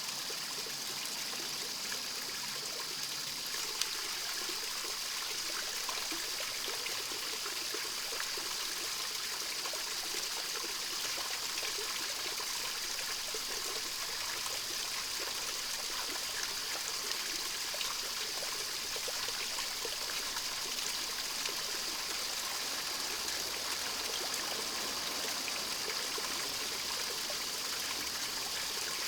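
A stream running steadily: an even, unbroken sound of flowing water.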